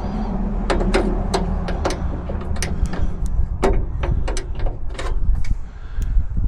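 Irregular sharp metallic clicks and clinks of hand tools working screws on a Jeep door, about two or three a second, over a steady low rumble.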